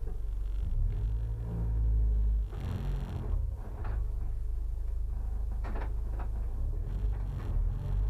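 Honda Civic EG6's B16A2 four-cylinder VTEC engine running at low revs as the car rolls slowly away, heard from inside the stripped-out cabin, with a few short clicks and knocks near the middle.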